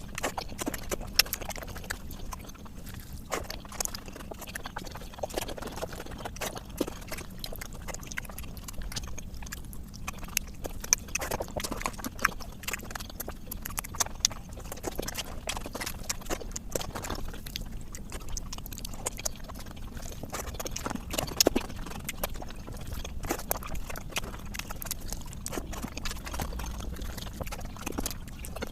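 A person eating fish curry and rice: chewing with many irregular, sharp mouth clicks and smacks.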